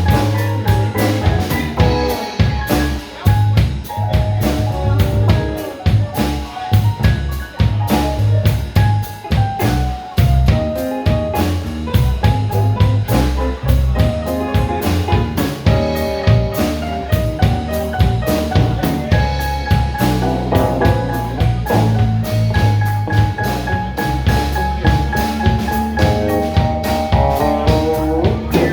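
Live blues band playing a slow blues instrumental section, with a keyboard taking a solo over electric bass and a drum kit.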